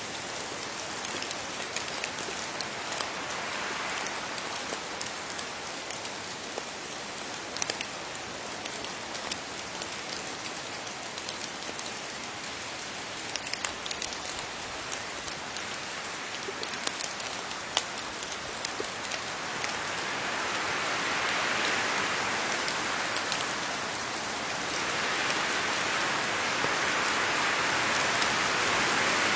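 Steady rain falling on leaves: a dense hiss pricked by the sharp ticks of single drops. The rain swells heavier about two-thirds of the way through, eases briefly, then swells again near the end.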